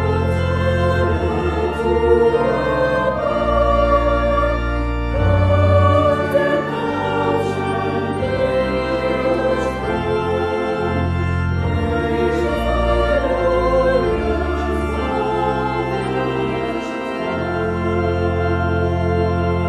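A choir singing a hymn with organ accompaniment, the organ holding long, steady bass notes under the voices.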